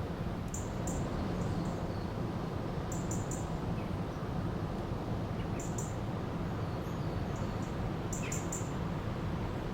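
River water rushing steadily, with small birds chirping over it: short high notes in clusters of two or three, repeated about every two and a half seconds.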